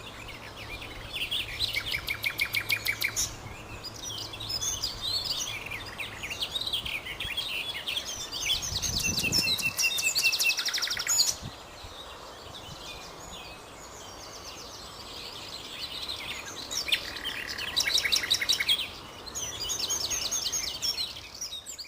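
Common nightingale singing: phrases of fast repeated notes and rapid trills, broken by short pauses.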